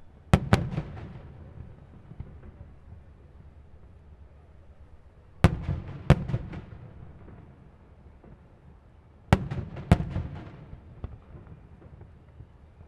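Aerial firework shells bursting: three pairs of sharp bangs about four to five seconds apart, each followed by a rolling low echo and a few smaller pops.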